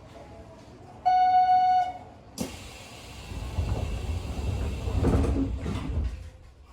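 Commuter train at a station: a short electronic warning tone sounds for under a second, then a sudden hiss and a low rumble as the train's sliding doors close, ending about six seconds in.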